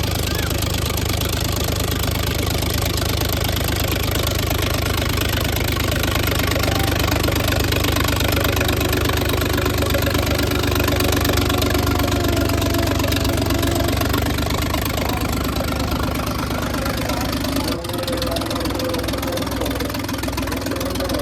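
Diesel tractor engine running steadily and loud, with a knocking beat; its sound shifts lower about three-quarters of the way through, after a brief break.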